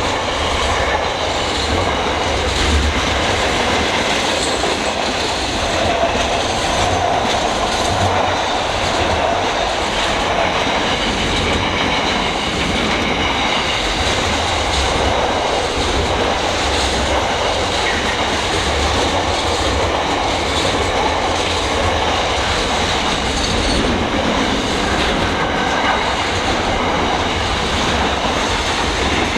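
Freight train wagons rolling steadily past, wheels clacking over the rail joints over a low rumble, with a faint high squeal from the wheels on the rails.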